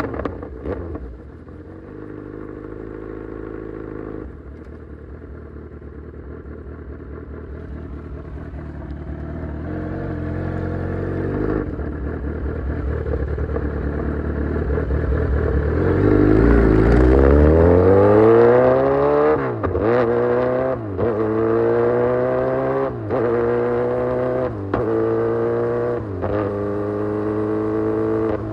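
Kawasaki Z900's inline-four engine through an Austin Racing full exhaust. It eases off right at the start, runs at low revs while slowly building, and then accelerates hard about halfway through with a rising pitch. After that comes a run of quick upshifts, each a brief drop in sound before the pitch climbs again.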